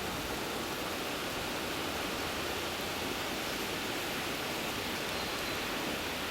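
Steady hiss of heavy rain together with the running noise of a moving passenger train, heard from inside the carriage.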